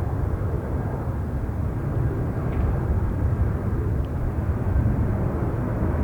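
Jet airliner's engines rumbling steadily as it passes, with wind buffeting the microphone.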